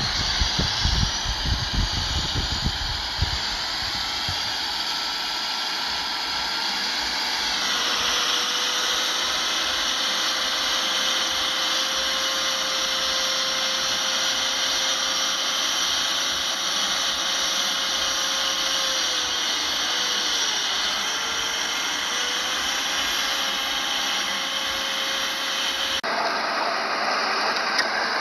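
Shantui bulldozer working: the diesel engine runs with a steady high-pitched machine whine over it, after low rumbling in the first few seconds. The sound changes abruptly near the end.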